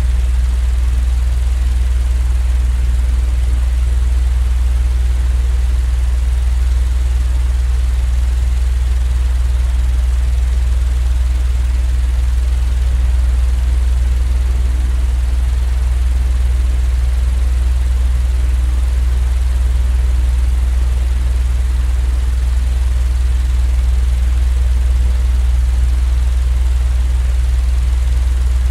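Steady, unbroken low-pitched drone of sleep-aid white noise, a machine-like rumble with its energy concentrated in the deep bass and a faint hiss above. It never changes in level or rhythm.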